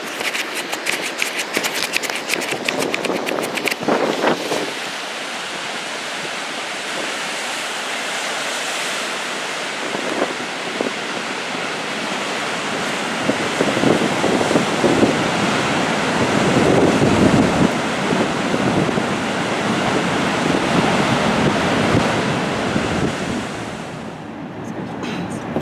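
Wind-driven surf on Lake Michigan, large waves breaking and washing in steadily, with heavier surges about halfway through. Strong wind buffets the microphone, crackling hardest in the first few seconds.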